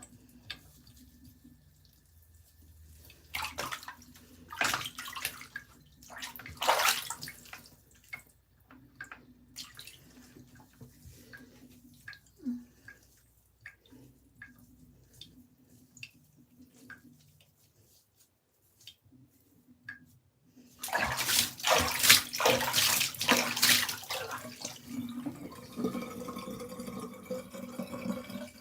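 Bath water splashing and pouring in a tub as a dog is washed for fleas. Scattered short splashes come first, then about two-thirds of the way through the water runs or pours louder and steadily.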